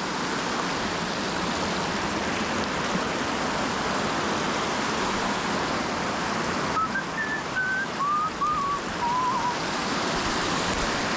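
Small mountain creek and waterfall rushing steadily. About seven seconds in, a short run of high whistled notes steps down in pitch over two or three seconds.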